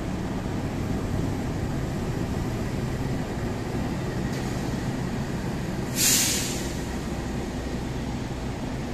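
Passenger coaches of a shunting train rolling slowly along the rails with a steady low rumble. About six seconds in there is a short, sudden hiss of air from the train's brakes.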